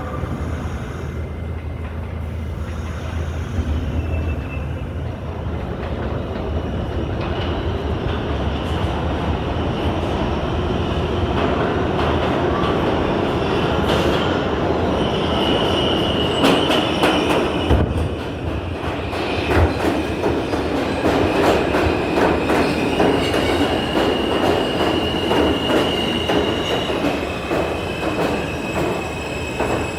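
New York City subway train running on the track, a steady rumble growing a little louder, with high wheel squeal setting in about halfway and a run of clicks as the wheels cross rail joints.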